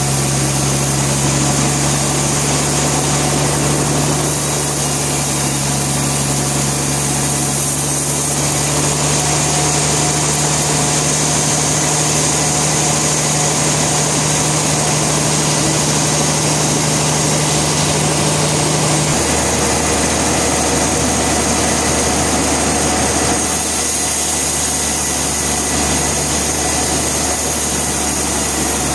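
Sawmill machinery running steadily with a constant mechanical hum. The low hum changes about two-thirds of the way through.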